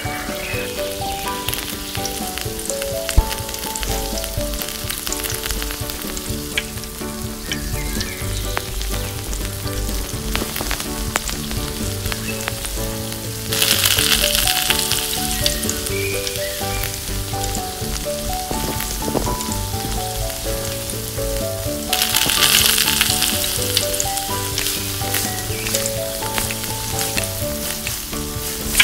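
Peeled boiled eggs frying in hot spiced oil in a miniature steel kadai, sizzling steadily with small clicks from a tiny spoon stirring. The sizzle turns louder about 14 seconds in and again about 22 seconds in, as more eggs go into the oil.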